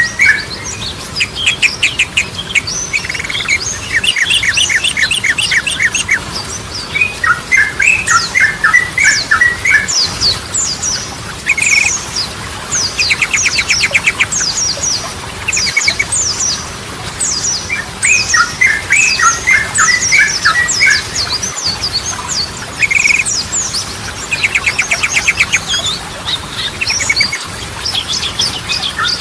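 Yellow-vented bulbul (trucukan) singing: repeated phrases of quick chattering notes and fast, evenly spaced trills, with thinner high notes running above them.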